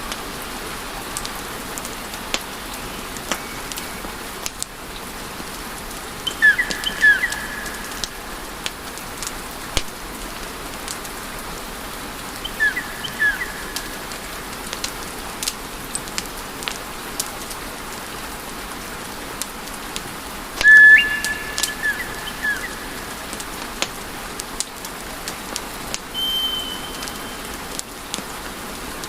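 Wood fire crackling in a fireplace: a steady hiss with frequent sharp pops, and a few short high-pitched whistles scattered through, the longest about two-thirds of the way in.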